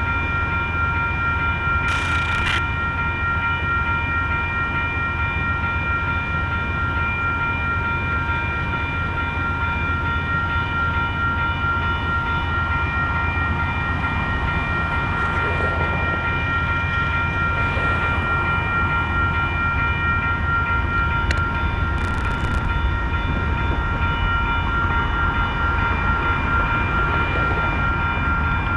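Amtrak Coast Starlight passenger train standing at the station with its diesel locomotive idling: a steady low engine rumble under a steady high-pitched whine, with a few short metallic clicks.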